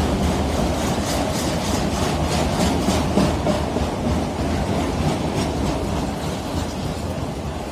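CSX freight train of autorack cars rolling past close by: a steady low rumble of steel wheels on rail, with a run of regular clacks as wheels cross track joints during the first half, easing slightly toward the end.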